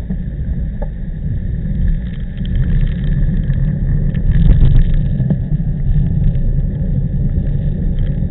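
Heavy low wind rumble buffeting the microphone while cycling in typhoon wind, rising and falling in gusts and loudest about four and a half seconds in. A faint steady high whine runs underneath.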